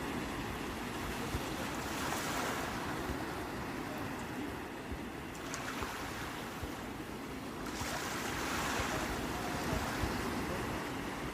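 Sea waves breaking, the surf swelling twice, about two seconds in and again around eight seconds, over a steady low rumble.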